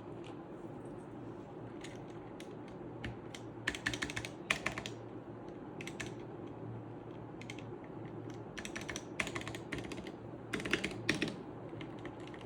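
Keys of a Redragon K530 Pro mechanical keyboard fitted with new keycaps being typed: scattered single key clacks, with quick runs of rapid keystrokes about four seconds in and again in the second half.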